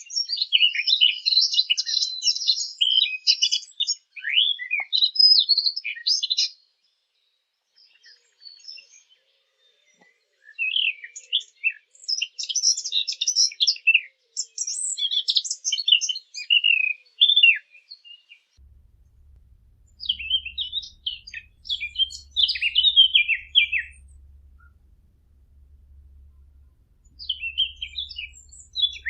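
A Sylvia warbler, the bird known as the fig bird, singing in rapid, varied warbling phrases of high notes. There are four bursts of song separated by pauses of a few seconds. A faint low hum comes in about two-thirds of the way through.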